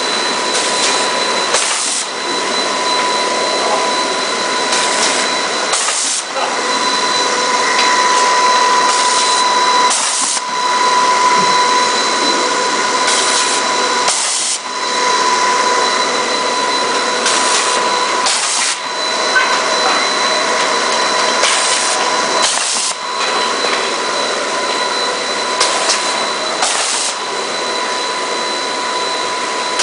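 Machinery of a PVC door gasket extrusion line running steadily, a hissing din with steady tones through it. A pair of short, sharp bursts about a second apart comes round about every four seconds, the line's regular work cycle.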